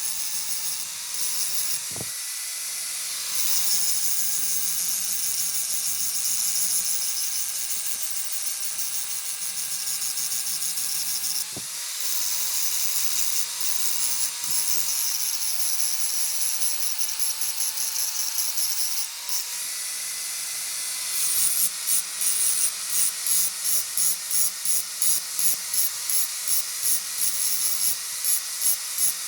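Small high-speed electric power tool, such as a grinder, running on metal with a hiss of abrasive. Its whine dips in pitch when it is pressed into the work and rises again when it is eased off. For the last several seconds the level pulses a few times a second as the tool is worked back and forth.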